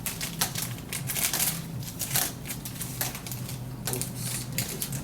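Rapid crackling and clicking from food packets and utensils being handled while noodles are prepared, over a steady low hum.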